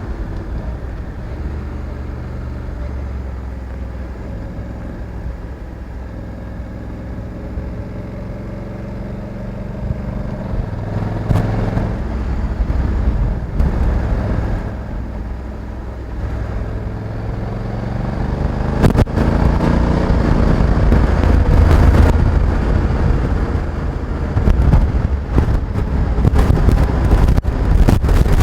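Honda Africa Twin 1100's parallel-twin engine running on the move, its revs rising and falling. It gets louder about two-thirds of the way in, with brief crackles of noise scattered through the second half.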